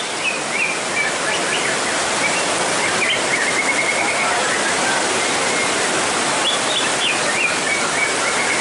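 Heavy rain pouring down in a steady hiss, with a white-rumped shama (murai batu) singing over it in short phrases of sharp whistles and a quick trill.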